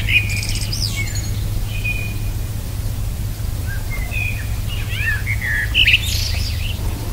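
Small birds chirping and whistling in short up-and-down phrases: one burst in the first second and a busier flurry about four to six seconds in. A steady low rumble runs underneath.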